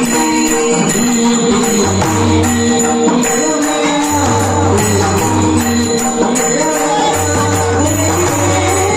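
Marathi devotional song: a man's voice singing a winding melodic line over rhythmic jingling percussion and held accompanying notes.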